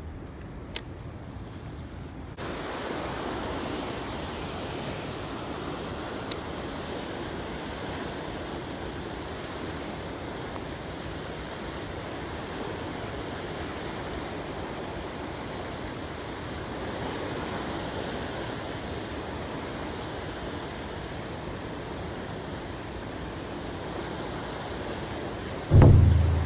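Steady wash of wind and sea water at a seaside fishing spot, stepping up suddenly about two seconds in. Two faint sharp clicks come in the first several seconds, and a loud low thump about a second before the end.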